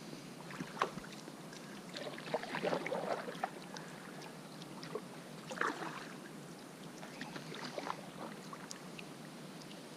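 Small water splashes and scattered light knocks and clicks around a fishing kayak, coming in short irregular clusters.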